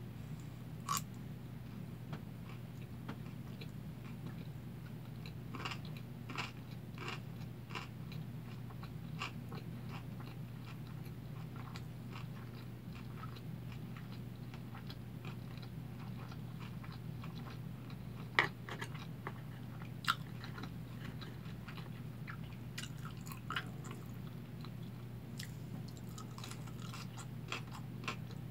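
Close-miked chewing of a big mouthful of kimbap: soft wet mouth clicks and small crunches, irregular, with the sharpest crunches about eighteen and twenty seconds in, over a steady low hum.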